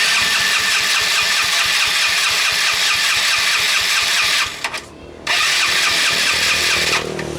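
Yamaha Mio Soul scooter's single-cylinder engine run loud through a hollowed-out (bobokan) exhaust that is nearly an open pipe. It runs hard, drops away for under a second about four and a half seconds in, then comes back loud before easing off near the end.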